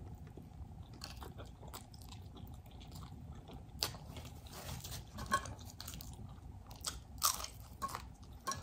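A person chewing crunchy food close to the microphone, with soft wet mouth sounds and a few sharper crunches about four, five and a half, and seven seconds in.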